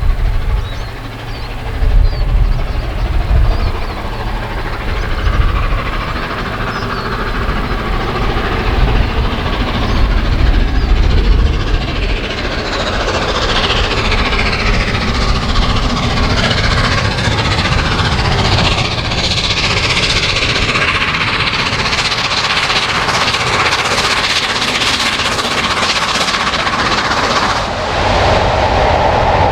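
A passenger train of eleven coaches rolling past, its wheels clattering over the rail joints. The clatter builds and grows louder from about halfway through.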